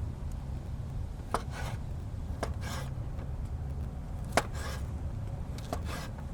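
Four sharp knocks, each followed by a short rasping scrape, like chopping or cutting strokes, over a low steady rumble.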